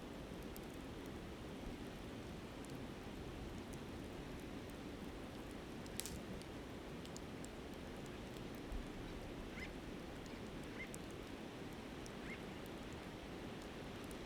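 Campfire crackling with scattered small pops and one sharper pop about halfway, over the steady rush of the flowing river. A few short bird calls come in the second half.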